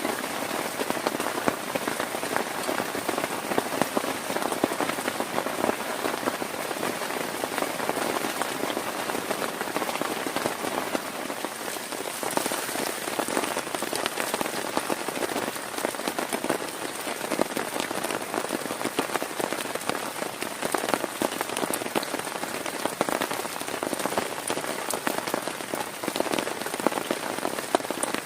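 Heavy rain falling steadily on a tent, a dense patter of individual drops over a continuous hiss.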